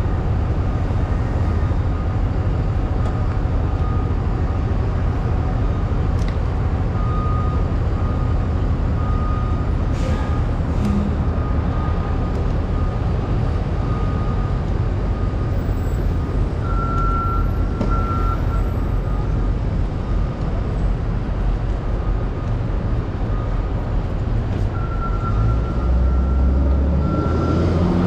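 Steady, loud low rumble of heavy vehicles, with a faint high whine coming and going over it.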